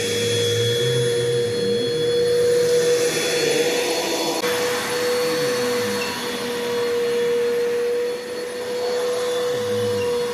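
Bissell PowerForce Bagless 6583 upright vacuum cleaner's 10-amp motor running, with a steady whine over a rush of air. About halfway through, the high part of the airflow rush drops away.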